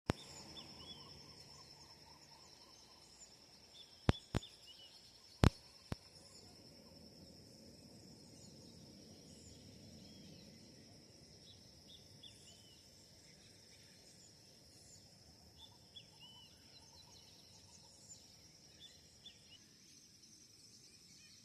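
Outdoor ambience of a steady high-pitched insect trill, like crickets, with scattered bird chirps. A few sharp clicks stand out about four to six seconds in.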